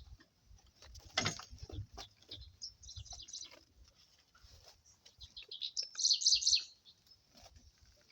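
Small birds chirping and twittering, with a loud run of rapid chirps about six seconds in. A sharp knock comes about a second in, and there are faint low thumps throughout.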